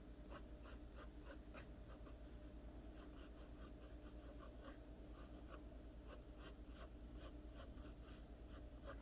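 Graphite pencil scratching quick, short strokes on paper, about three or four a second, laying in strands of hair.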